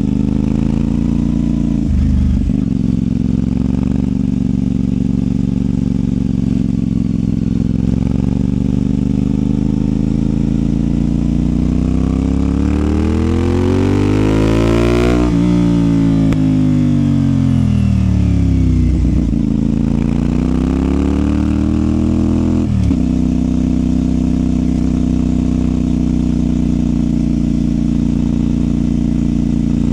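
CFMOTO 450SR's parallel-twin engine through its Yoshimura exhaust, heard from the rider's seat. It runs at a steady speed, then revs up in rising pitch under acceleration about halfway through, drops sharply as the throttle closes and winds down before settling back to a steady drone.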